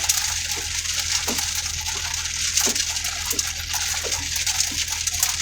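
Heavy rain on a vehicle's roof and windshield: a steady hiss with scattered individual drop hits, over a low steady hum.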